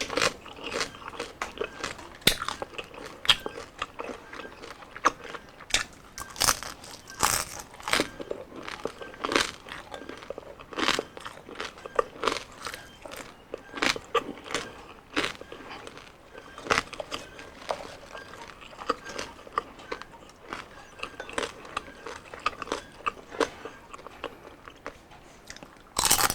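Crunching bites and chewing of crispy deep-fried skin, crispy pata or chicken skin, with sharp irregular crackles every second or so.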